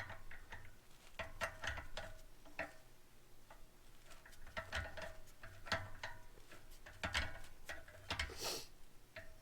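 Faint, irregular metal clicks and light clinks of bolts and hand tools being handled while the pump is bolted on, with a brief rustle near the end.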